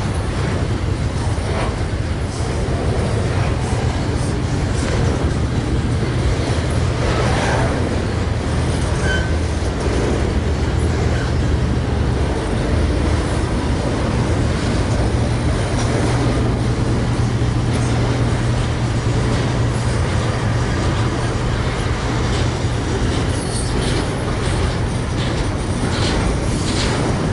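Freight train rolling past with a steady, loud rumble and the low hum of its diesel engines, with scattered clicks of wheels over rail joints.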